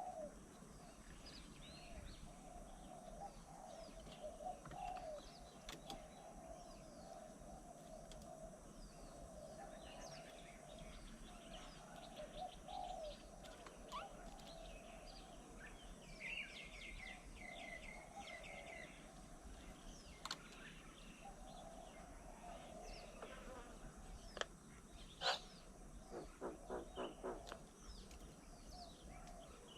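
Assorted wild birds chirping and calling, with a short trill of repeated notes about halfway through and a fast run of notes near the end.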